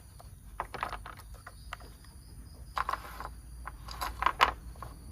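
Plastic toy train parts being handled, with short clicks and rattles in three quick clusters, the loudest near the end, over a faint steady high-pitched hum.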